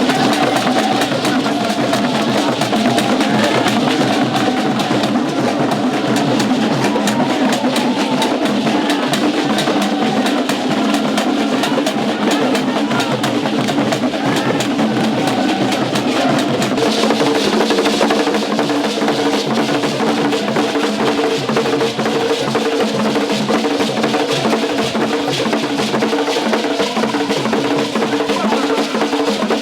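Drum and percussion music with dense, fast clicking strokes over drums; steady held tones join a little past halfway.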